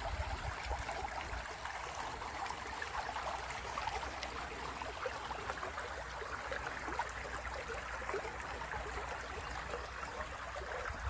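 Small stream babbling steadily over stones, a continuous even trickle and splash of water.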